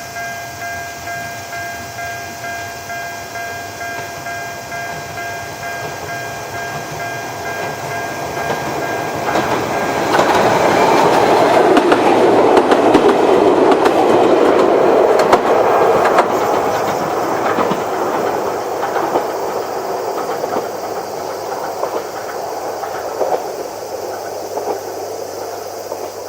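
A ringing signal made of steady pitched tones repeats in an even pattern, typical of a level-crossing warning bell, and stops about nine seconds in. An Ichibata Electric Railway 2100 series electric train then passes with a loud rush and wheels clicking over the rail joints, fading away near the end.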